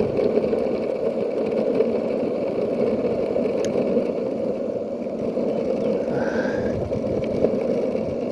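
Skateboard wheels rolling steadily over an asphalt road, a constant low rumbling whir. A brief high chirp is heard about six seconds in.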